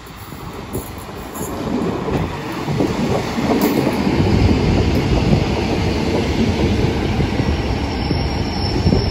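Class 150 and Class 143 diesel multiple units pulling into the platform: diesel engines and wheels rumbling on the rails, growing louder about two seconds in. A thin high whine starts near the end.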